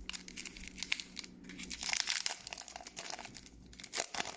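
Foil wrapper of a Pokémon TCG booster pack crinkling and tearing as it is opened by hand, a dense run of irregular crackles.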